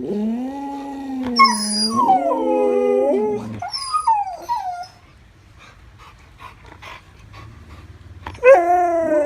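Siberian huskies howling and 'talking': a long wavering howl with a second, higher voice joining in, then a few short whines. After a quiet pause, another howl starts near the end, falling in pitch.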